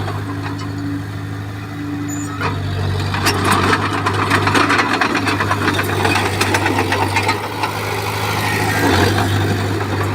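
Bulldozer's diesel engine running steadily, with a dense spell of clattering and cracking from about three seconds in until near the end as the machine works soil and stone.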